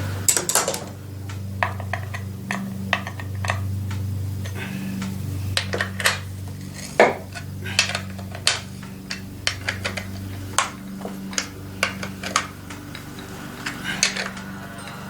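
Irregular sharp metal clinks and clicks as a new bar and chain are fitted and snugged down on a Husqvarna 390 XP chainsaw: tool on the bar nuts and chain links knocking against the bar. A steady low hum runs underneath.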